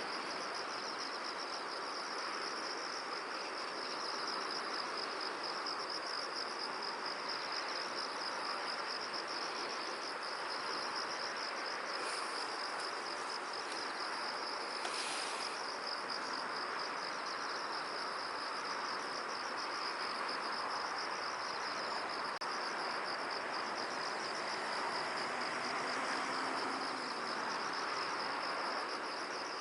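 Insects trilling in a continuous, finely pulsing high chorus over a steady soft hiss of outdoor air, with a brief higher sound about halfway through.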